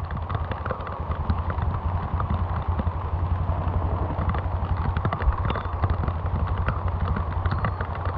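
Rain falling in a forest, a dense crackle of drops close to the microphone, over a steady low rumble.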